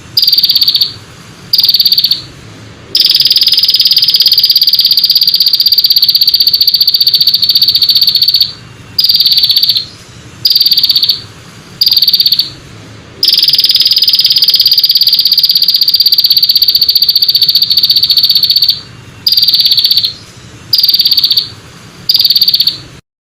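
A small songbird's high, buzzing trill, repeated in short bursts about a second apart and broken by two long unbroken trills of about five seconds each. The sound cuts off suddenly near the end.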